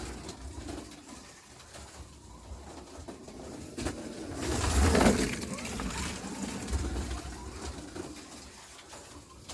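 NSR Corvette slot car running laps on a plastic track, its motor and tyres rumbling, growing loud as it passes close about five seconds in and then fading away.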